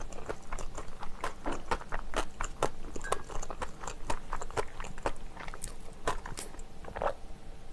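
A person chewing food close to the microphone: a steady run of small, sharp mouth clicks and smacks.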